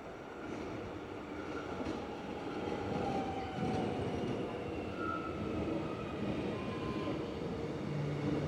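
Electric suburban train coming into the station, a rail rumble growing louder with thin whining tones that slide down in pitch as it slows.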